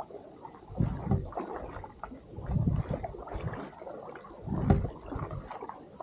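Water sloshing and splashing around a kayak in uneven surges every second or two.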